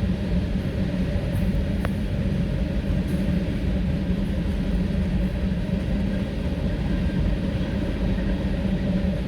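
Mixed freight train rolling past, a steady rumble of wheels on rail, with one brief click about two seconds in.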